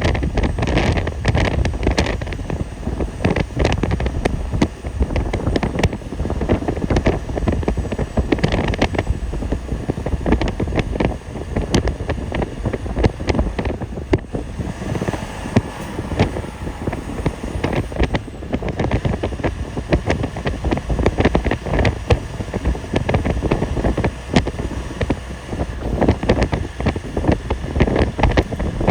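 A vehicle driving on a snowy road: steady rumbling road and wind noise, with frequent crackles and knocks throughout.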